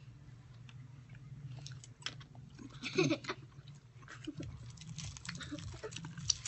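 Chewing of grilled pork intestine (isaw), with scattered small crackly mouth clicks and rustling. A brief high vocal sound comes about three seconds in, over a low steady hum.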